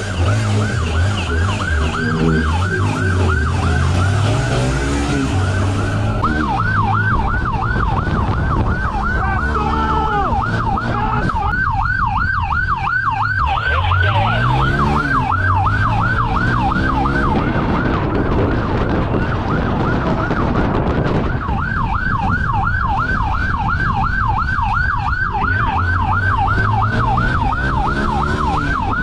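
Police siren in a fast yelp, its pitch sweeping up and down about three times a second, with a vehicle engine revving underneath. The siren weakens for a second or two a couple of times.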